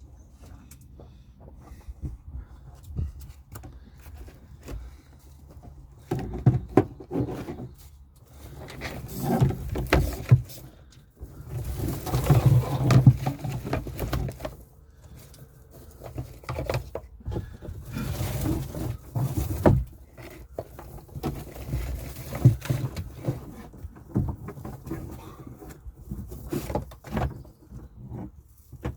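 Irregular rustling, clicking and knocking of hands working with cable and tools in a cramped space, with louder stretches of rustling several times.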